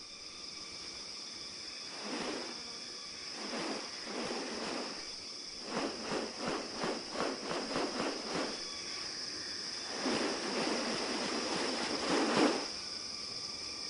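Rainforest insects holding a steady high-pitched drone, with several rustling swishes over it, including a quick run of about three a second in the middle and a longer one near the end.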